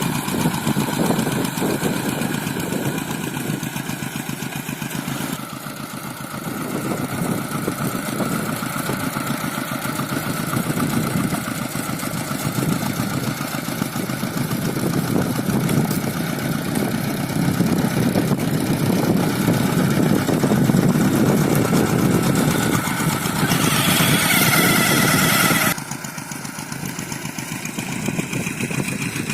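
Single-cylinder diesel engine of a two-wheel hand tractor running, its note shifting as the load changes. Near the end a hissing noise lies over it for about two seconds, then the sound drops abruptly.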